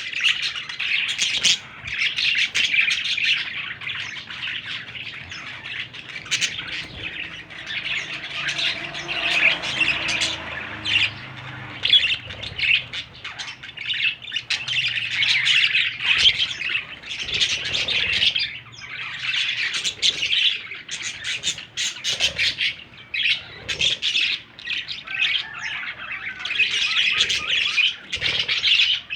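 Young budgerigars chattering and squawking nonstop, a dense stream of rapid scratchy calls.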